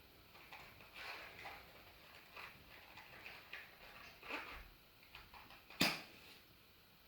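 Log fire crackling softly in a fireplace, with scattered small snaps and one sharp, louder pop near the end.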